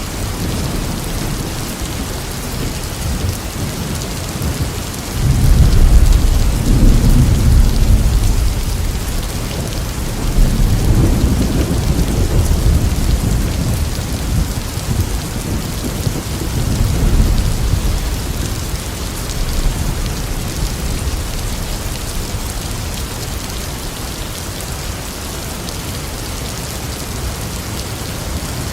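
Steady heavy rain hissing, with rolls of thunder rumbling over it: a loud rumble starts suddenly about five seconds in, and further rolls come around ten seconds and seventeen seconds in before they fade to rain alone.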